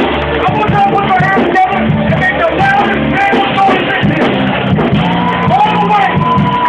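Live band playing hip hop music at full volume, with a steady bass line and vocals over it.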